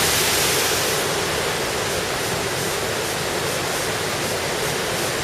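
Steady rush of fast-flowing white water, a river tumbling over rocks, loud and even; its high hiss eases slightly about a second in.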